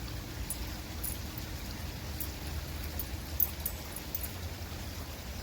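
Creek water running steadily after rain, with short high ticks scattered through and one sharper click about three and a half seconds in.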